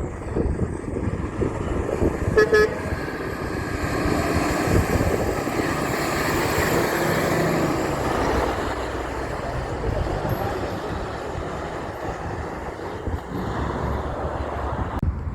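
A short horn toot about two seconds in, then a big truck passing by. Its engine and tyre noise builds to a peak mid-way and slowly fades.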